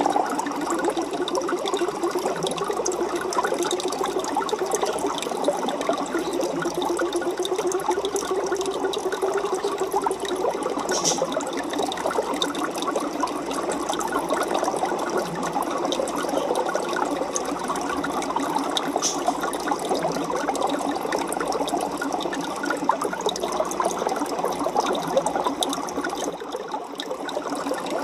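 Aquarium water bubbling and trickling steadily, a dense stream of small pops and splashes.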